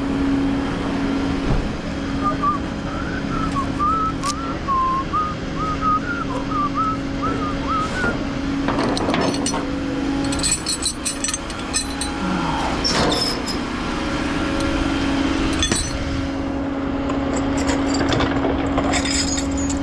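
Tow truck engine running steadily with a low hum while metal hook-up gear clanks a few times from about the middle on. A warbling high whistle sounds for several seconds near the start.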